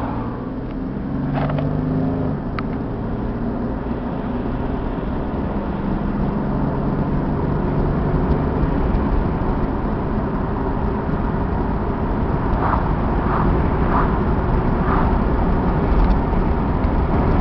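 1996 Chevrolet Camaro RS's 3.8-litre V6 engine and road noise heard from inside the cabin while driving, building slowly as the car speeds up toward highway speed.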